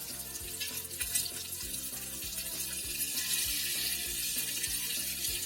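Masala-marinated Indian mackerel frying in hot oil in a pan: a steady sizzle with scattered crackles.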